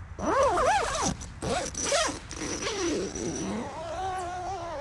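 Nylon tent door zipper being pulled shut in several strokes, its rasp rising and falling in pitch with the speed of the pull, with a longer wavering pull near the end.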